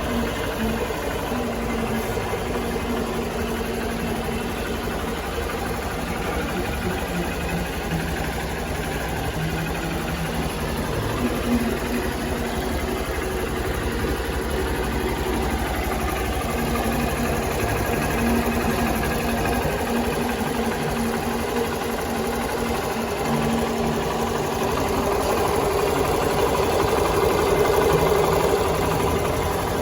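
Hero Hunk 190R motorcycle engine idling steadily with a fast mechanical clatter. It grows a little louder near the end.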